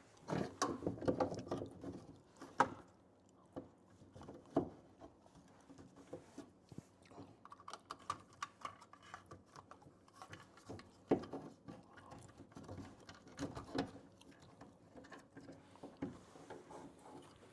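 Scattered light clicks, taps and rustling from hand work on a plastic old-work electrical box and its wiring in a drywall opening, with a few sharper knocks.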